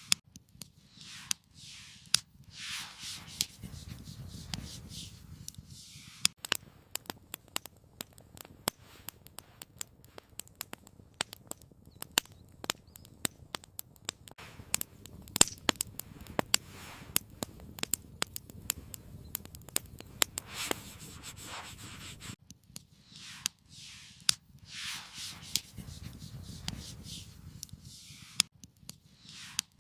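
Rubbing and rustling handling sounds. In the middle comes a long stretch of many sharp, irregular clicks and crackles, then the rustling returns near the end.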